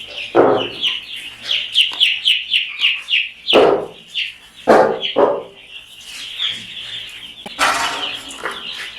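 A group of young chicken chicks peeping, rapid short high chirps that each slide downward, coming thick and fast for the first few seconds and then thinning out. A few short louder noises break in among them.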